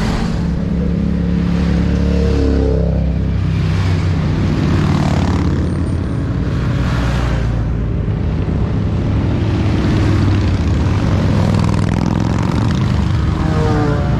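Motorcycle engines running in a slow-moving parade, a steady low drone, with the engine note shifting in pitch briefly about two and a half seconds in and again near the end.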